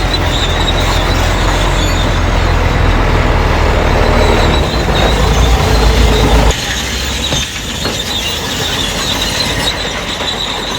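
Crawler bulldozer working: heavy diesel engine running under load, with a steady high squeal from the steel tracks. The deep engine rumble drops away suddenly about six and a half seconds in.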